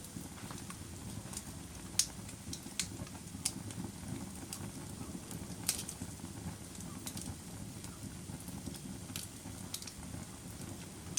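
Wood fire in a fireplace crackling, with sharp pops scattered irregularly through it, the loudest about two seconds in, over a steady low rumble of the flames.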